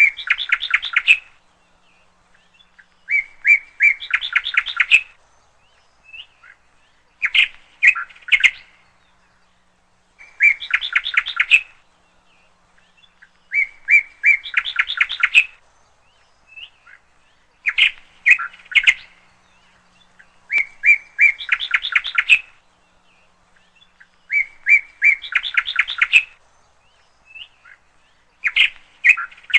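A parrot calling in repeated phrases of rapid, pulsed notes, each phrase lasting a second or two and coming back about every three seconds.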